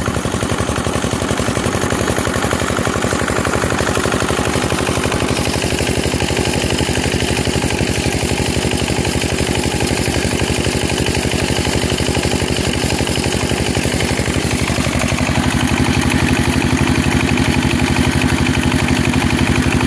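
Small engine running steadily at an even firing rhythm, its tone shifting and getting slightly louder about fifteen seconds in.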